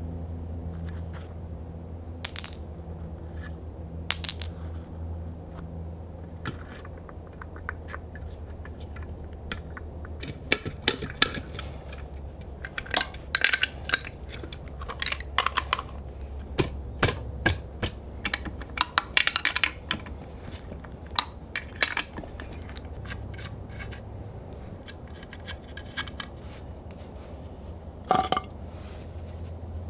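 Metal hand tools and fasteners clinking and tapping while working on a car's brake booster: a string of sharp irregular clicks, busiest around the middle, over a steady low hum.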